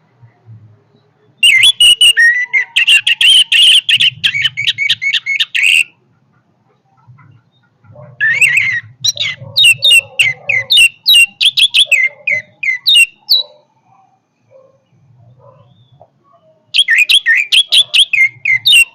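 Orange-headed thrush (anis merah) singing: loud, rapid phrases of varied whistled and chattering notes, in three bouts separated by pauses of a couple of seconds, the last starting near the end.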